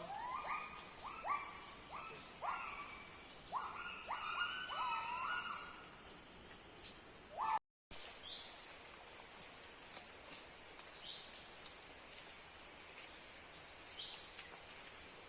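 Forest insects droning steadily at two high pitches. Over the first five seconds or so an animal gives a run of about a dozen short rising calls. The sound drops out briefly about halfway through, after which only the insect drone and a few faint chirps remain.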